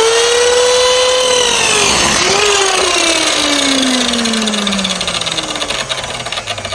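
Electric power saw making an angled cut through a wooden plank. The motor whines at full speed, falters briefly about two seconds in, then its whine falls steadily in pitch as the blade spins down.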